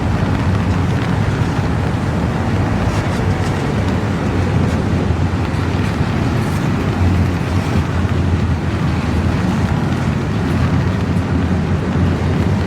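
Long, slow intermodal freight train rolling past: a steady, even rumble of cars on the rails.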